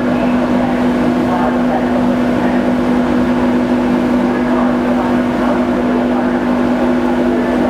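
Steady drone of a car ferry's engines: a constant hum that holds one pitch with no change in level.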